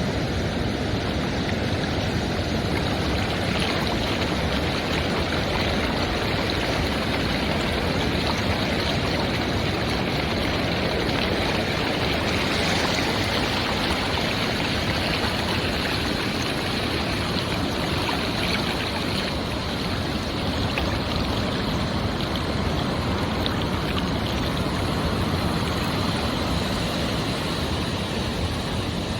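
Surf on a beach: a steady wash of breaking ocean waves.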